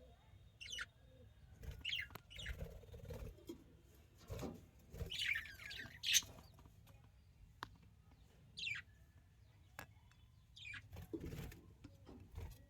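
Budgerigars chirping in short scattered calls, with a few light knocks.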